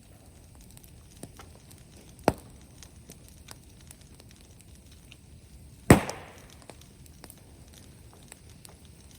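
Bonfire of brushwood and bamboo crackling with scattered small ticks, broken by two sharp loud cracks: one about two seconds in and a louder one near six seconds that rings on briefly.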